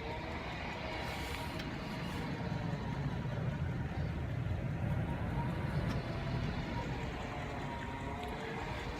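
A 2008 Chevrolet Avalanche's 5.3-litre V8 idling: a steady low rumble that swells slightly through the middle.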